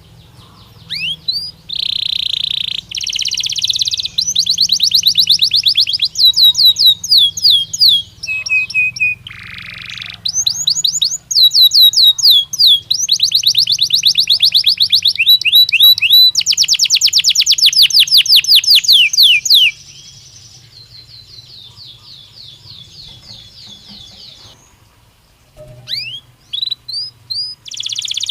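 Belgian canary singing: long, loud trills of rapidly repeated chirping notes. About two-thirds of the way through, the song drops to a softer, quieter passage, then loud notes come back near the end.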